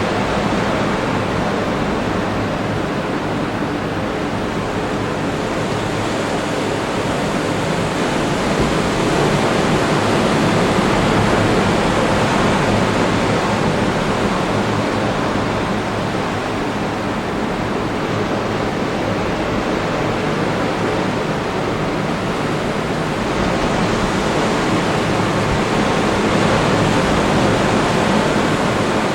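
Atlantic Ocean surf breaking on the beach: a steady wash of waves that swells and eases slowly.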